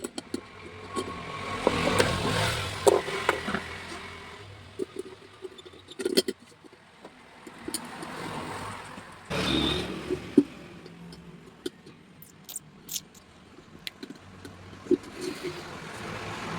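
Hands working on an electric kettle: irregular clicks, knocks and scraping of parts being handled, with louder stretches of rubbing and clatter about two seconds in and again about ten seconds in.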